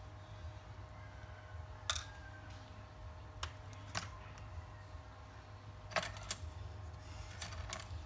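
A few light, sharp clicks and taps at irregular intervals, from hand tools being handled on a phone-repair bench, over a steady low hum and a faint steady tone from bench equipment.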